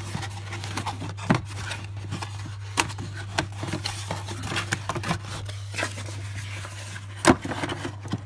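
Handling noise: irregular clicks, knocks and scraping of objects being moved about, with a sharper knock about seven seconds in, over a steady low hum.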